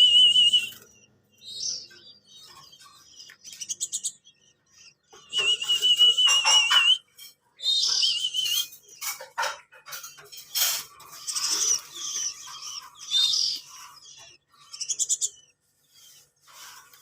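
Small birds chirping and calling in short high notes. Twice a wavering high trill is held for about a second and a half, once near the start and once around the middle.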